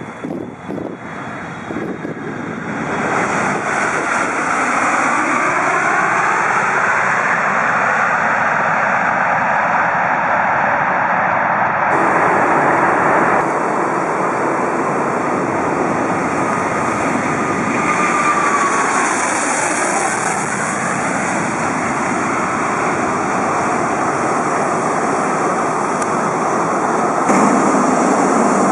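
Jet airliner's GE90-115B turbofan engines running, a loud steady roar that builds over the first few seconds, with slow sweeping tones as the aircraft moves. The sound changes abruptly twice near the middle.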